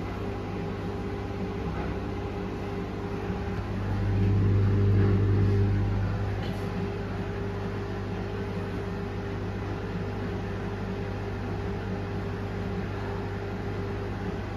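Cottons 40 portable washing machine running mid-cycle: a steady motor hum that swells louder for about two seconds near the middle, then settles back.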